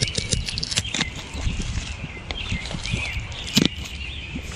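Plastic wrapper on a suet cake being cut and peeled open with a pocket knife: irregular crinkling and clicks, one sharper crackle about three and a half seconds in. Wild birds chirp faintly behind.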